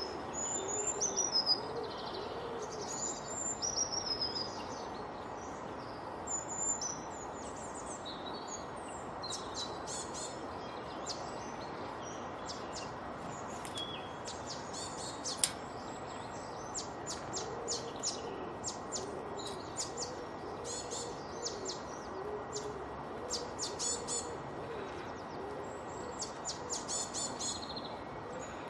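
Several birds singing and calling together: descending whistled phrases near the start, then many rapid high chips, with low, repeated hooting calls off and on, over a steady background hiss.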